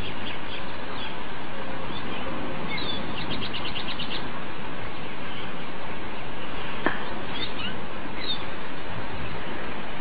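Birds chirping over a steady background hiss: scattered short high chirps, with a quick trill of about eight notes about three seconds in, and a single click about seven seconds in.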